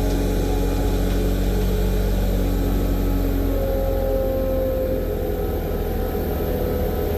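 Pushback tug's heavy engine running steadily with a deep, even rumble.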